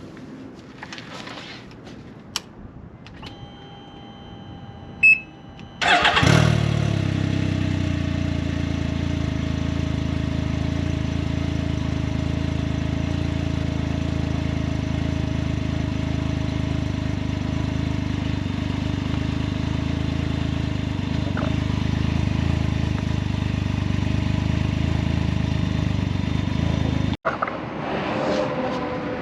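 Can-Am Ryker 900's Rotax three-cylinder engine on its stock exhaust: after a thin steady tone for about two seconds and a sharp click, the engine starts about six seconds in and idles steadily. The sound cuts off abruptly near the end.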